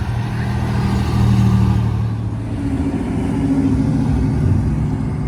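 Classic cars' engines running as they drive past, one after another. The first, deep-pitched one is loudest about a second and a half in, and a higher-pitched engine follows from about two and a half seconds in.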